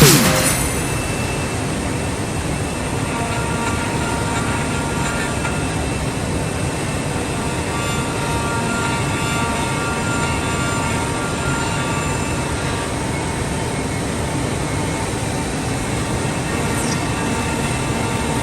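Five-axis CNC woodworking machining centre running: a steady mechanical noise with a few faint, steady high tones over it.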